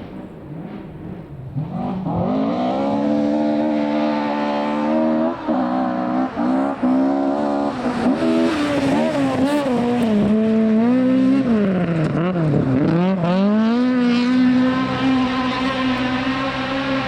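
Rally car engine at full throttle, revs climbing and held high with quick gear changes, then falling sharply as the car brakes into a tight corner, lowest about twelve seconds in, before climbing again as it accelerates out.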